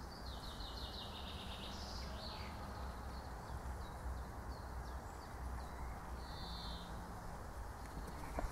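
Songbirds singing in the surrounding trees: a quick run of repeated notes falling in pitch near the start, then scattered shorter calls and another brief call later on. Underneath runs a steady low rumble.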